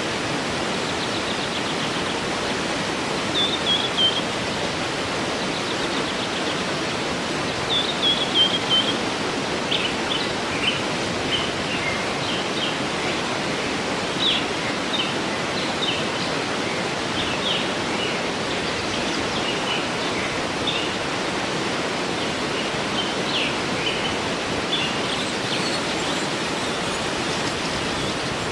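Waterfall rushing steadily, with birds singing over it: a couple of short falling phrases in the first third, then scattered short chirps.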